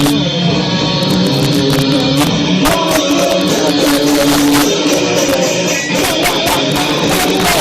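Live rock band playing loud: electric guitar chords over drums with frequent cymbal and drum hits, recorded with poor, distorted sound quality.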